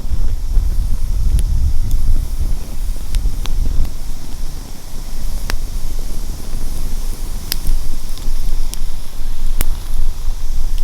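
Wind rumbling on the microphone, with a few sharp, isolated crackles and pops scattered through it.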